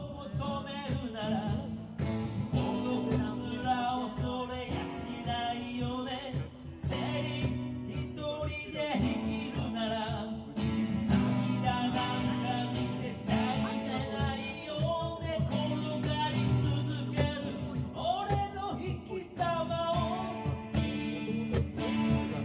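A man singing a Japanese song in full voice over a strummed Yamaha FS TransAcoustic acoustic guitar, with a cajon keeping the beat.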